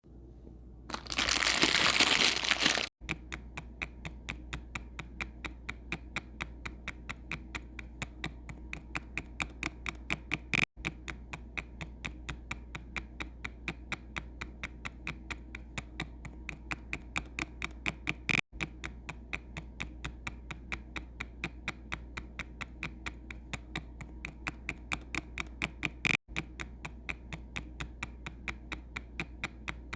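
A loud burst of hiss for about two seconds, then a steady run of rapid, even clicks, about four to five a second, over a low hum. The clicks drop out briefly every eight seconds or so, as a repeating loop does.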